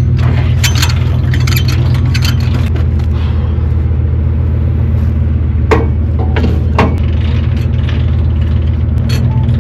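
Truck engine idling steadily under metal clanks and rattles from a trailer hitch and jack being worked, with two sharper metal knocks about six and seven seconds in.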